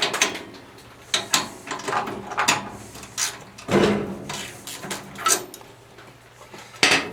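Irregular metallic clicks and clunks of hand tools being handled, about seven separate knocks, as a 13/16 spark plug socket is put to work removing a small engine's spark plug.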